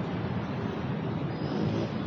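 Steady road traffic noise: a continuous low rumble of vehicles on the road, with no single event standing out.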